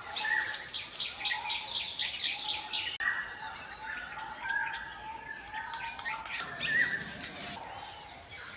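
Several wild birds calling and chirping: a rapid run of about a dozen high notes in the first three seconds, scattered shorter chirps after it, and a swooping call about seven seconds in.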